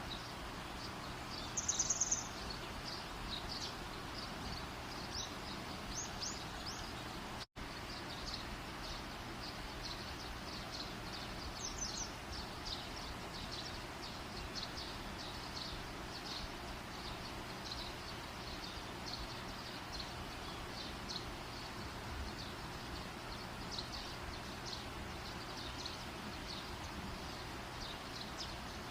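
Campfire burning with a steady hiss and irregular light crackle, overlaid by small high chirps of birds or insects outdoors. One louder high chirp comes about two seconds in.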